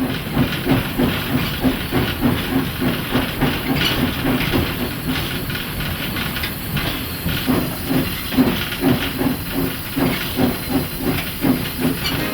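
South African Railways Class 15F steam locomotive chuffing as it moves while shunting: a steady run of exhaust beats, about three a second, over a continuous hiss of steam.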